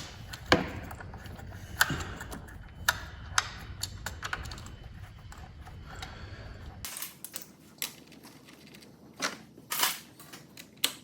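Scattered sharp clicks and light knocks of hand tools and engine parts being handled, irregular like typing. A low background hum drops out suddenly about seven seconds in.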